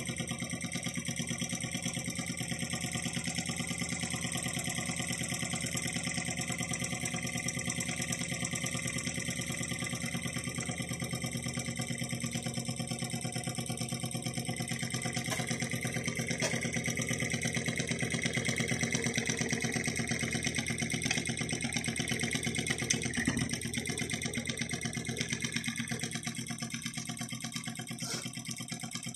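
Small model Stirling (hot-air) engine running at a steady speed, a fast even mechanical beat, a little louder about two-thirds of the way through.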